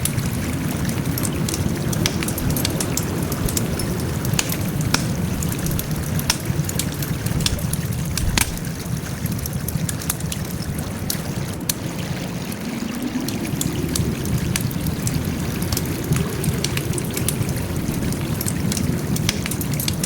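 Wood fire burning, with a steady low rush of flames under frequent irregular sharp crackles and pops, and one louder pop about eight seconds in.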